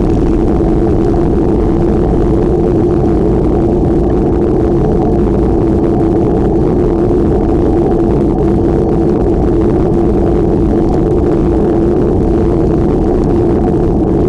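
Loud, steady rushing noise with a low hum and no letup, from wind and riding noise on the microphone during a bike ride.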